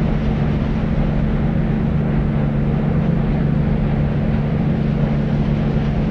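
Deep white noise sleep sound: an even, unchanging hiss weighted heavily toward the bass, with a steady hum-like band low down and little treble.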